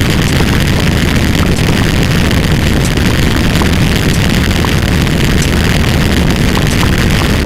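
A loud, steady, rumbling roar of dense noise, heaviest in the low end, with no clear pitch or beat.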